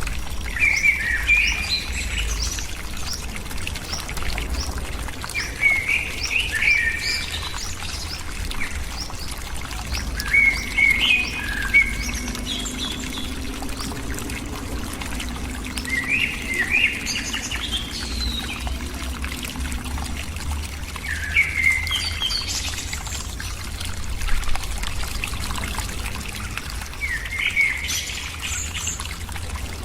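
A bird singing a short chirping phrase over and over, about every five seconds, over a steady low rumble.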